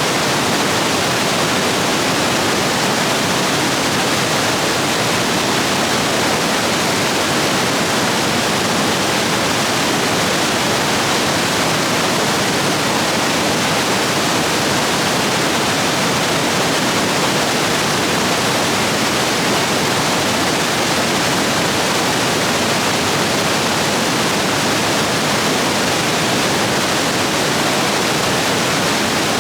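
Rapids in a rain-swollen stream rushing steadily over rocks, an even, unbroken roar of water.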